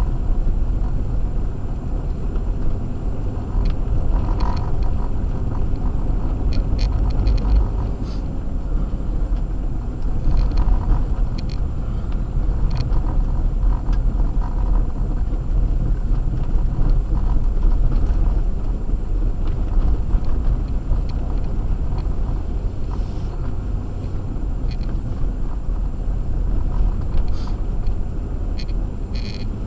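Acura MDX on Sumitomo Ice Edge winter tires driving on a snow-covered road: a steady low rumble of tyres and engine, with scattered faint ticks.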